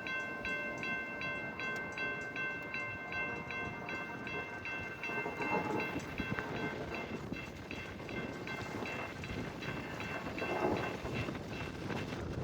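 CSX freight train rolling past with a low rumble and wheel clatter, while a bell dings steadily about two and a half times a second.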